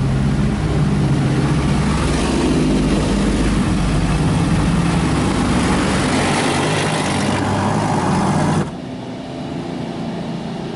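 Automatic car wash machinery running through its wheel-scrub cycle, heard from inside the car: a loud steady rush of water spray over a low motor hum. The rush drops off sharply about nine seconds in, leaving a quieter hum.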